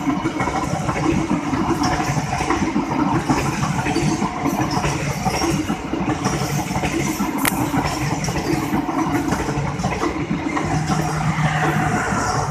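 Road vehicles with their engines running and accelerating, a dense, steady traffic noise.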